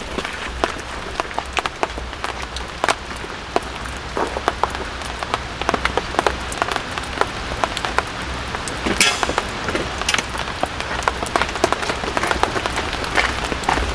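Rain falling on a tent: irregular drops ticking on the fabric over a steady patter, with one louder hit about nine seconds in.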